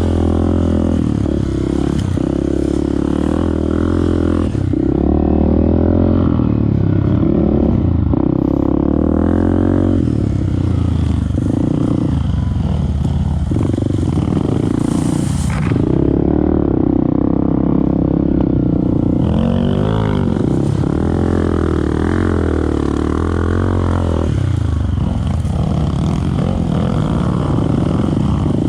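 Off-road motorcycle engine running hard and revving up and down repeatedly as it is ridden, its pitch rising and falling throughout.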